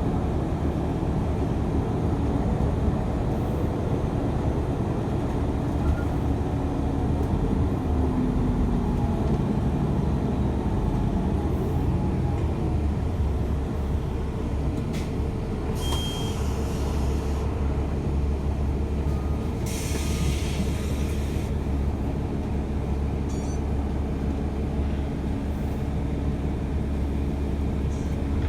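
TTC subway train running, heard from inside the car: a steady low rumble with a falling whine about a third of the way in and two short bursts of hiss later on.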